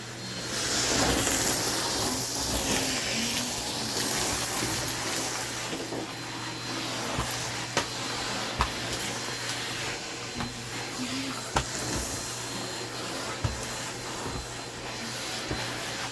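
Vacuum cleaner running steadily while sucking up crumbs from a floor, with a constant low hum and a thin high whine. A few sharp clicks sound now and then.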